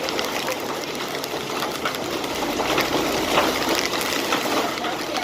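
Heavy rain falling steadily: a dense, even hiss dotted with many small drop ticks.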